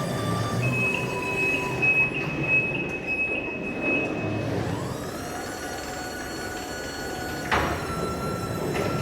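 Electric reach truck running with a high steady whine, then its motor whine rises in pitch about halfway through and holds, with a sharp clunk near the end.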